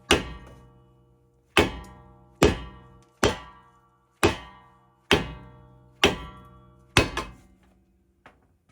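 Hammer blows on a Mazda Miata's brake rotor, about nine ringing metallic strikes roughly a second apart with a quick double near the end. The rotor is being knocked loose from the hub, with the car in first gear to keep the hub from turning.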